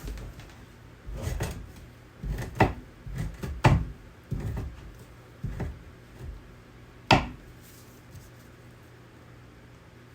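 Irregular knocks and bumps of hands-on work at a bench, about a dozen over the first seven seconds, with the sharpest knock about seven seconds in.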